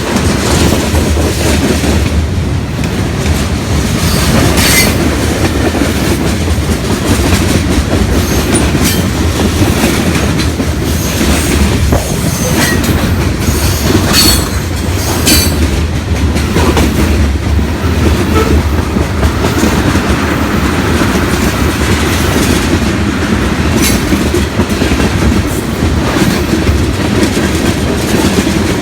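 Freight train cars rolling past, a loud steady rumble with scattered sharp clicks from the wheels on the rails.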